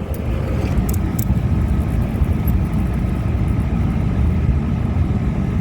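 Carrier condensing unit running steadily: a low, even rumble from the compressor and condenser fan, with a faint steady whine and a few light clicks in the first second or so. The compressor is being flooded with liquid refrigerant by an overfeeding TXV.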